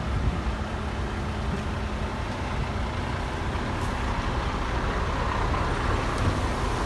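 Heavy diesel earthmoving machinery running steadily under load, a continuous engine rumble.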